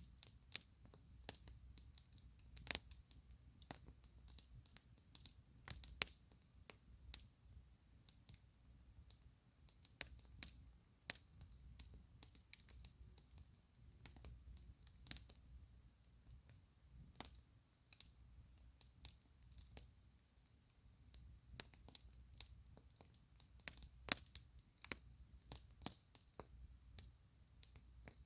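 Campfire crackling: burning wood giving off irregular sharp snaps and pops, one or two a second and some much louder than others, over a faint low rumble.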